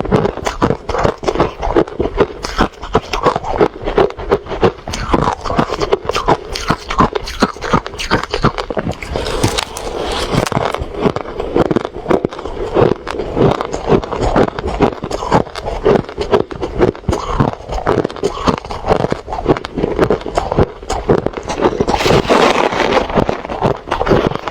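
Refrozen crushed ice being chewed on a close microphone, a rapid, continuous run of loud crunches.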